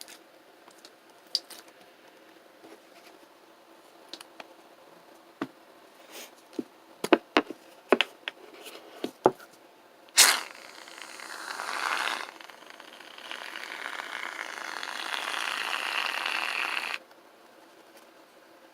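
A series of sharp clicks and taps, then an aerosol can of shaving foam being sprayed: a sudden start about ten seconds in, followed by two long hisses, the second lasting about four seconds and cutting off abruptly.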